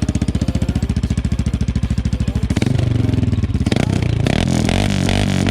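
CFMoto 625 ATV's single-cylinder engine through an aftermarket RJWC crossflow exhaust, running with an even pulsing beat. About two and a half seconds in it gets louder and revs, the pitch rising and falling.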